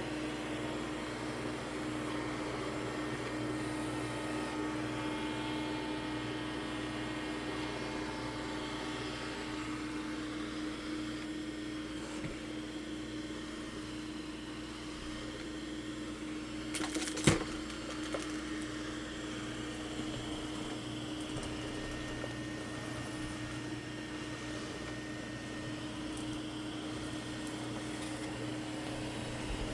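Mova P50 robot vacuum running with a steady motor hum, and a single sharp knock a little past halfway through.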